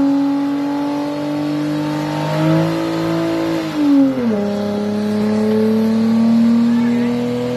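Nissan Fuga 250GT's 2.5-litre V6 held at high revs during a burnout. The pitch holds, rises slightly, drops sharply about four seconds in, then slowly climbs again.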